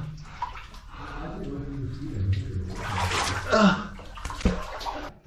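Water splashing and sloshing as a person crawls through a shallow pool, with a sharp knock about four and a half seconds in; the sound cuts off suddenly near the end.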